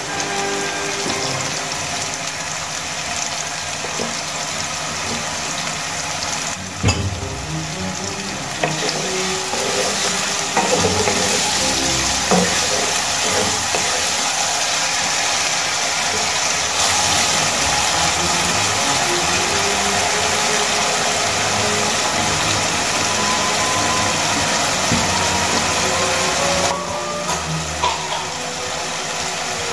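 Diced potatoes frying in hot oil in a nonstick kadai: a steady sizzle, with a wooden spatula stirring them through the pan.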